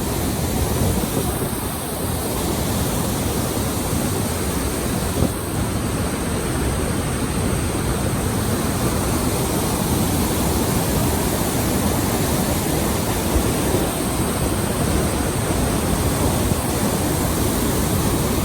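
Niagara Falls' water crashing down close enough to almost touch, a steady deep rushing noise with no letup.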